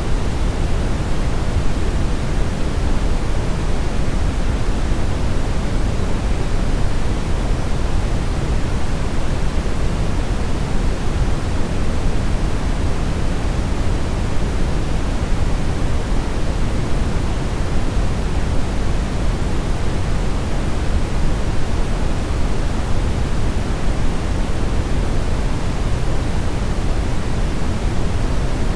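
Steady brown noise, a deep rushing hiss strongest in the bass and falling away in the treble, unchanging throughout.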